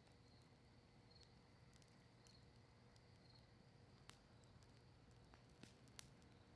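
Quiet campfire of cedar leaves and maple wood crackling, with a few sparse sharp pops over a low steady hiss. A faint high chirp repeats about once a second early on.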